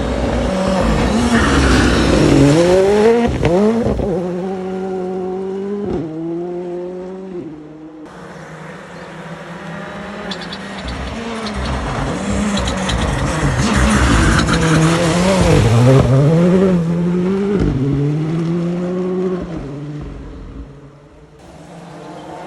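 Rally cars driven flat out on a forest stage, one after another. Each engine revs up through the gears, its pitch rising and then dropping at every gear change, over a hiss of tyres on the stage surface. The first car passes, then after a sudden cut about eight seconds in a second car comes through.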